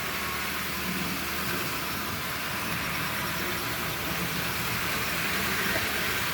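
Thomas the Tank Engine model train running around the track: a steady electric motor whir with wheel and rail noise, a little louder near the end.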